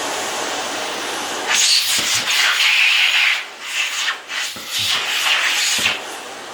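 Philips Performer Pro canister vacuum cleaner running for an airflow test, air rushing through the hose with a steady hiss. About a second and a half in the air noise turns louder and harsher with a rubbing edge, and it changes unevenly with several brief dips until near the end.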